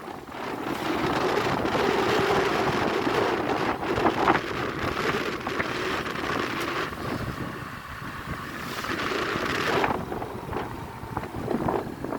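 Motorcycle engine running while riding, largely covered by wind buffeting the microphone.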